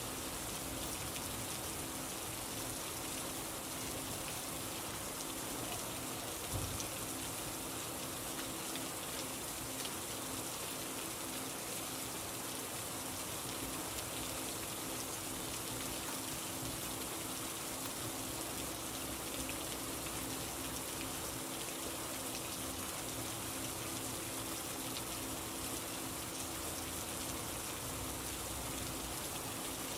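Steady rain falling: an even, continuous hiss, with a faint steady hum underneath. One soft low thump about six and a half seconds in.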